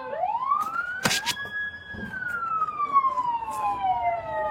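Police siren in its slow wail: the pitch rises over about a second and a half, holds briefly, then falls slowly to low again near the end. A sharp click comes about a second in.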